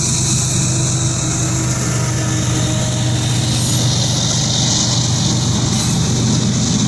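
Norfolk Southern freight train's diesel locomotive engines running with a steady low drone, over a high hiss of wheels on rail.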